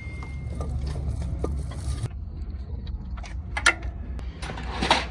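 Metal parts and tools clinking and scraping over a steady low hum, with a sharp metallic click past the middle and a louder scrape near the end.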